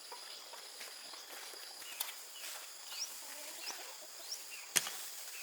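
Short rising bird chirps, a few about a second apart, over a faint steady high tone. Two sharp knocks come about two seconds in and near the end, the second the loudest sound.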